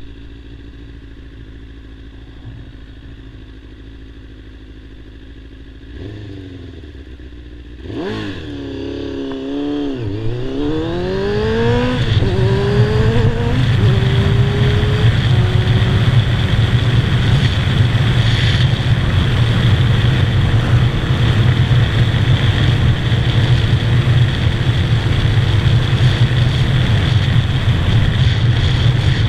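Kawasaki ZZR600's inline-four engine running steadily at low revs, then pulling away hard about eight seconds in, its pitch rising and dropping through several upshifts. After that a steady loud rush of engine and wind at highway speed.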